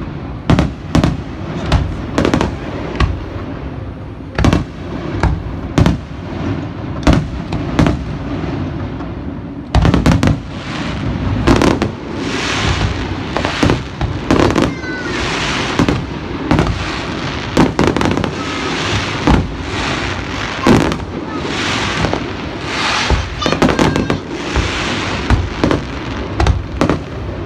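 Fireworks going off in a rapid string of sharp bangs. About ten seconds in, the bangs come faster and merge into a dense, continuous crackle.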